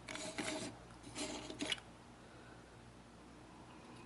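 Small plastic Choro Q toy truck being handled: two short rubbing, scraping sounds in the first two seconds, then only faint room tone.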